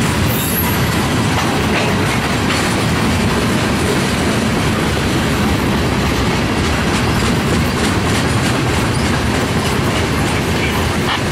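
Railroad cars rolling past close by: a steady rumble of steel wheels on the rails with the clickety-clack of rail joints, and a brief high wheel squeal about half a second in.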